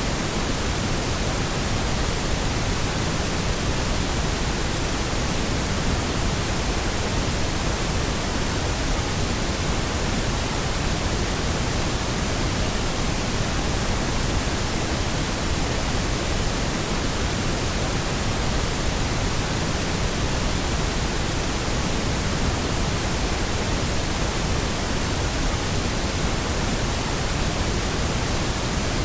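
Steady, unchanging pink noise: an even hiss spread across all pitches, with more weight in the lows than white noise.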